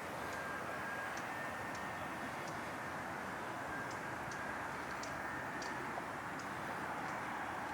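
Steady outdoor background noise, with a faint thin high tone that comes and goes and light scattered ticks.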